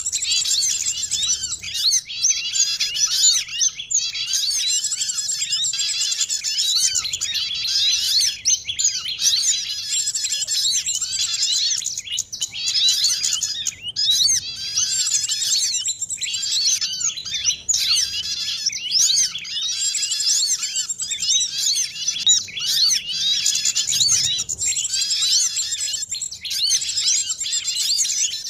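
Dense, unbroken chorus of many small songbirds chirping and twittering over one another in quick, high-pitched overlapping calls, a mixed small-bird lure recording.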